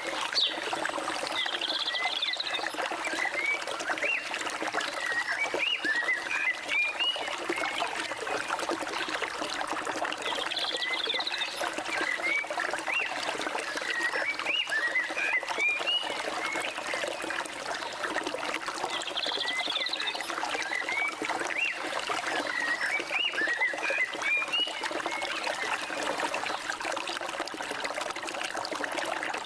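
Flowing forest water running steadily, with birds singing over it in repeated phrases of quick rising chirps.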